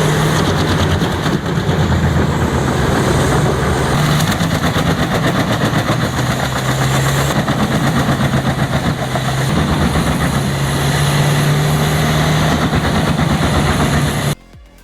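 Pezzolato drum chipper, driven by a 1,150-horsepower Caterpillar engine, running loud and steady under load as it chips logs, with a dense, rapid rattle of wood being chewed over the engine's drone. It cuts off suddenly near the end.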